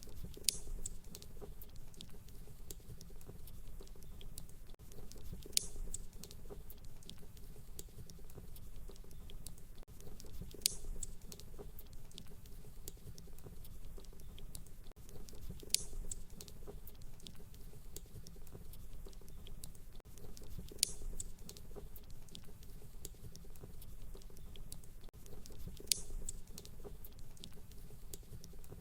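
Fireplace crackling steadily with many small ticks, and a sharper pop about every five seconds in an evenly repeating pattern.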